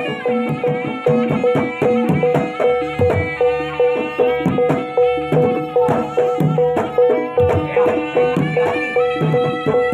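Traditional jaranan music accompanying a barongan dance: hand drums beat about twice a second under a continuous pitched melody with a held tone.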